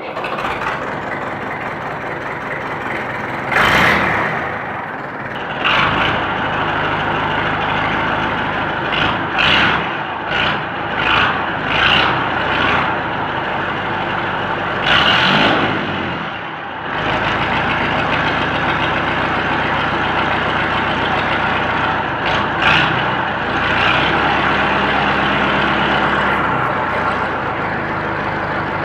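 Massey Ferguson 65 Mk2 tractor engine running through a straight pipe exhaust, idling with short throttle blips several times, most of them in the first half.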